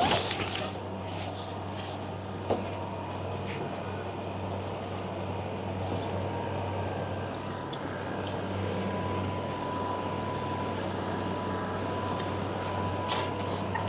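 Air conditioner unit running: a steady hum with fan rush, and a brief click about two and a half seconds in.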